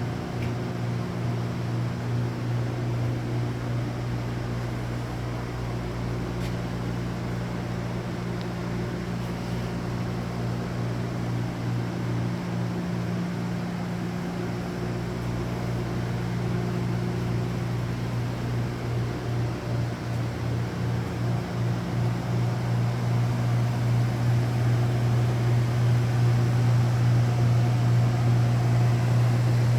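Machinery running with a steady low hum. It throbs at times through the middle and grows louder toward the end.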